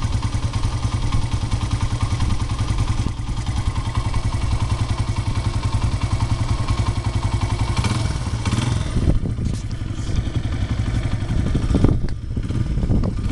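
Honda CRF100 dirt bike's single-cylinder four-stroke engine running at a steady idle, with a few clattering knocks near the end.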